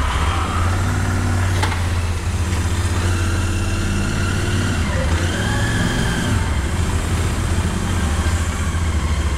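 Motorcycle engine idling steadily, with a single click about one and a half seconds in.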